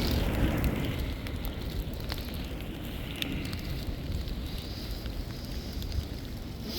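Wind buffeting the microphone in a blizzard, a steady low rumble with light crackling and scattered faint ticks throughout.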